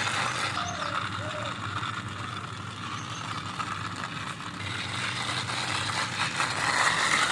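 Plastic wheels of a toy dump truck rolling and rattling along a wall as it is pushed by hand: a steady, gritty rolling noise.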